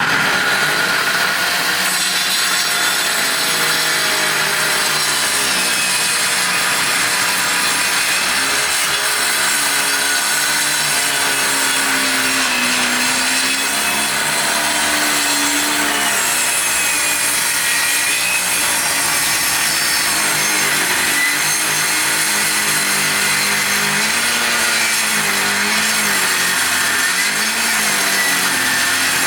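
Power saw cutting wood: a loud, continuous run whose motor pitch wavers up and down as the cut loads it. The sound starts abruptly.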